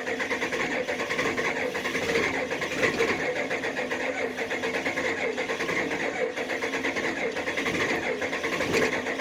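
IDI diesel engine cranked on its starter in cold weather, turning over in a steady, even rhythm but not firing.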